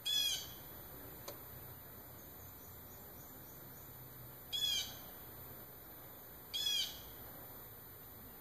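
A bird calling three times, each a short call of about a third of a second: one at the start, then two more about two seconds apart later on.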